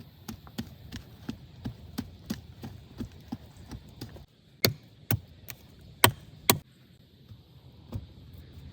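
Blows of a hand tool on wood: a quick run of light, even strikes about three a second, then a few louder, sharper blows spaced about half a second to a second apart.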